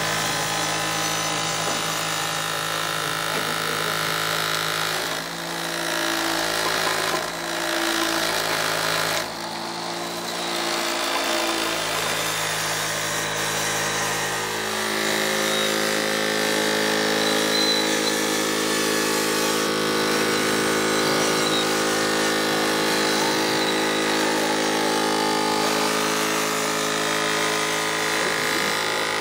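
A machine running steadily with a constant hum; its tone changes about halfway through.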